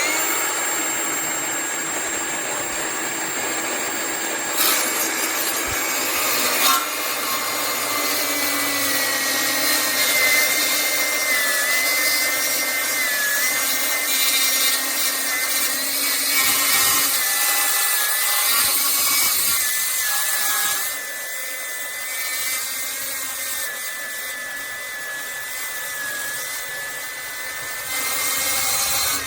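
Milwaukee M18 FUEL 8-inch brushless cordless metal-cutting circular saw running and cutting through metal, a loud steady whine with a wavering ringing tone that starts and stops suddenly. It goes a little quieter for several seconds near the end.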